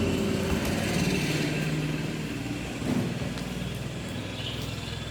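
A steady low engine-like hum, as of a motor vehicle running, with a single knock about three seconds in.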